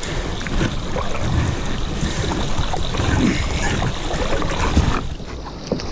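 A kayak working through a shallow, rocky river riffle: water rushing steadily around the hull, with irregular knocks and bumps from the hull and paddle.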